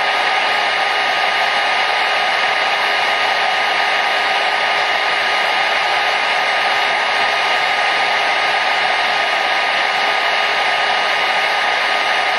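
Hair dryer running steadily: a constant airy rush with a faint steady whine from its motor.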